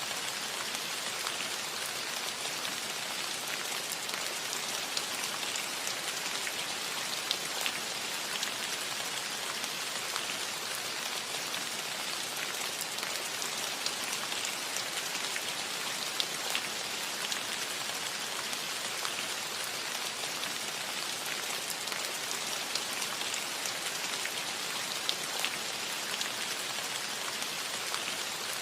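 Steady light rain pattering on a metal roof, a constant hiss dotted with many small drop ticks.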